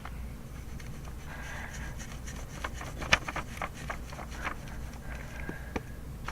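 Pencil writing on paper: a run of short scratching strokes, with one sharper tap near the middle.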